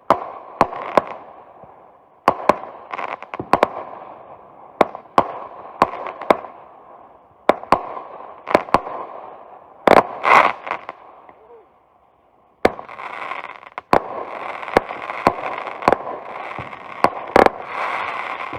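Consumer aerial fireworks going off: a string of sharp bangs with crackling between them and one especially loud burst about ten seconds in. After a short lull, dense crackling sets in, mixed with further bangs.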